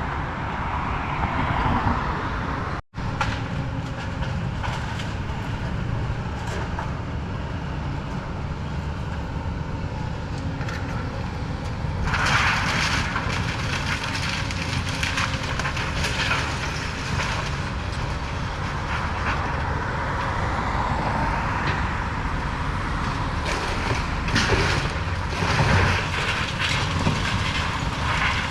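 Excavator engine running steadily under load, with scattered cracks and louder crashes of a house's timber and debris breaking and falling as it is torn down, the heaviest about twelve seconds in and again near the end.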